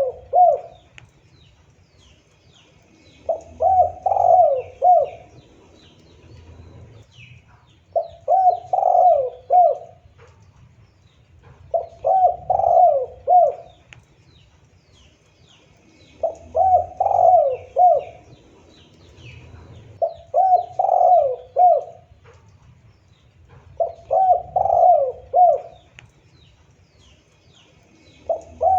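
Spotted dove (tekukur) cooing: phrases of several low, quick coos, repeated about every four seconds. Faint chirping of small birds sounds in the background.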